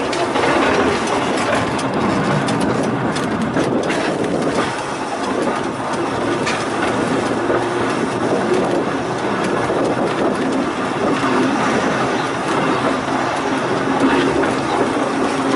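A Volk's Electric Railway car running along its narrow-gauge track, a steady rumble of wheels on rail with a few sharp clicks.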